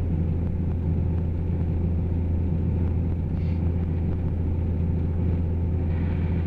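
Steady low rumble of a running Jeep ZJ, heard from inside the cabin.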